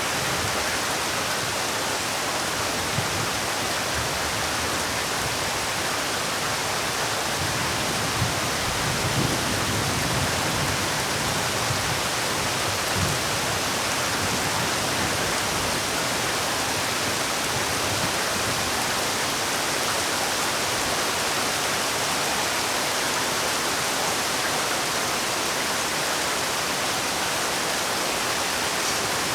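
Heavy rain falling steadily, a dense, even hiss, with a few heavier low drops in the first half.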